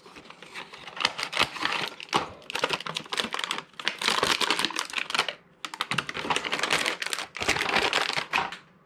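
Plastic packaging and HO-scale model train cars being handled: rapid crinkling and clicking, paused briefly about halfway through.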